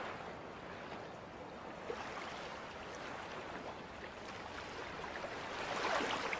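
Faint, steady wash of small waves on a sandy beach.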